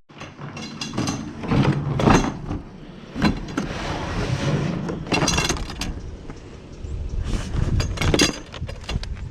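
Pieces of scrap metal clanking and rattling as they are handled, with several sharp clanks that ring briefly, the loudest about two, five and eight seconds in.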